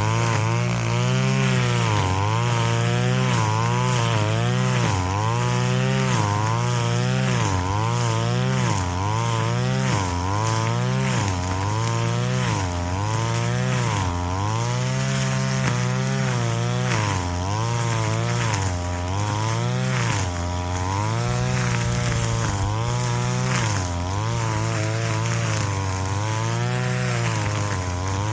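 Brush cutter engine running at full throttle while cutting grass, its pitch dipping and recovering about once a second or so as the blade swings through the growth and takes load.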